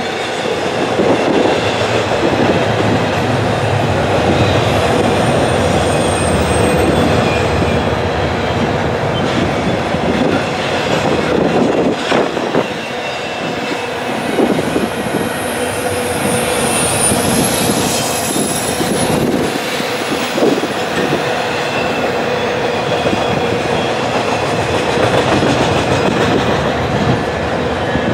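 Double-stack intermodal freight train rolling past at close range: a steady wheel-on-rail roar with occasional clacks over rail joints. Thin, high wheel squeals come in about six seconds in and again from about fourteen to nineteen seconds.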